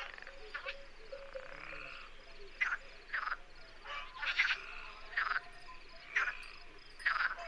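Animal croaking: about ten short, rasping calls, irregularly spaced, over a faint steady tone.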